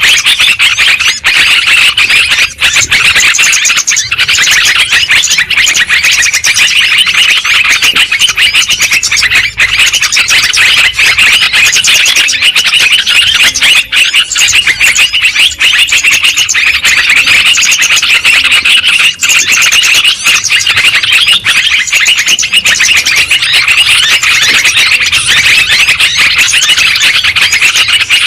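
Yellow-vented bulbuls (trucuk) calling noisily, a loud, dense chatter of many overlapping calls without a break.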